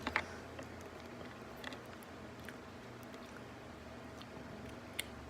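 Quiet room tone with a few faint, soft clicks from someone eating a gummy candle candy.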